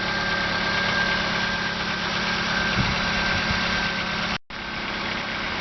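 1997 Honda Accord engine idling steadily, heard from outside the car. The sound cuts out completely for a moment about four seconds in.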